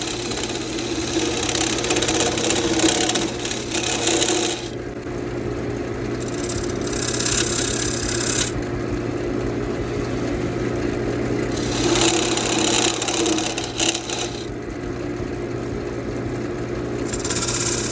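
Wood lathe running with a steady hum while a gouge cuts the spinning spalted sweetgum blank. The cutting hiss comes in separate passes: a long one at the start, two shorter ones in the middle and another near the end.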